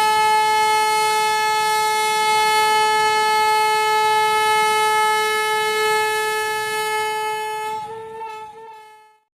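Locomotive air horn sounding one long, steady blast that wavers and dies away near the end.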